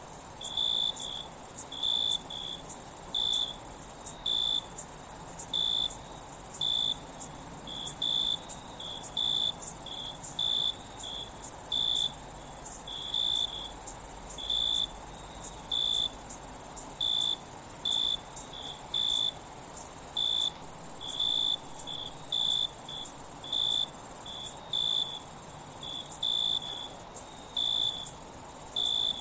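Night insect chorus: a continuous high-pitched trill with a cricket chirping over it, about once or twice a second. Now and then the sound drops out for an instant.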